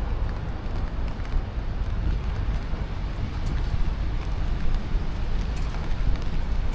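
Street ambience dominated by a steady low rumble, with a few faint ticks.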